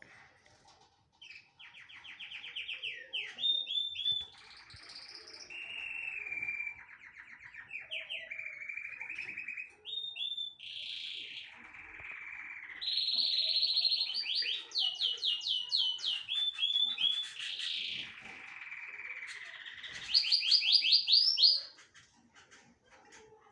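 A small songbird singing a long, varied song of rapid trills and whistled notes, starting about a second and a half in and stopping near the end.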